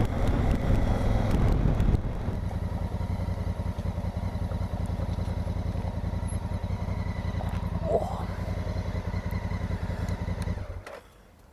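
Honda Africa Twin's parallel-twin engine, first with wind noise as the bike comes to a stop, then idling steadily, and switched off near the end.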